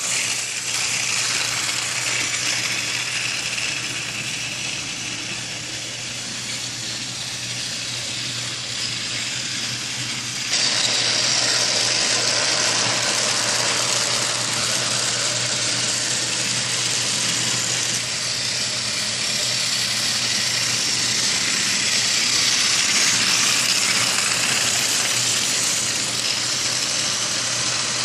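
Battery-powered Tomy Trackmaster toy engine running, its small electric motor and gears whirring steadily as it moves along plastic track. The whirr gets louder about ten seconds in.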